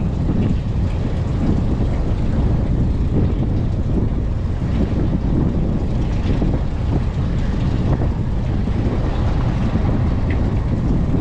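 Fishing boat at sea: a steady low rumble of the boat running, with wind buffeting the microphone.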